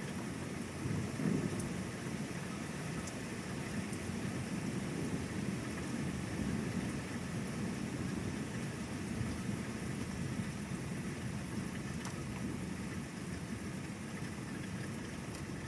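Thunderstorm: rain falling with a low, rolling rumble of thunder that swells about a second in.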